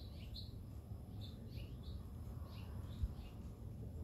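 Small birds chirping: short, high, downward-sliding notes repeating every half-second or so, over a steady low rumble. A brief low thump about three seconds in.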